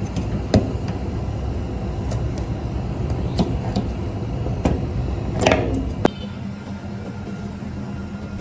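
Steady low machine hum with a few sharp metallic clicks and taps over it; the hum drops away about six seconds in, right after a louder click.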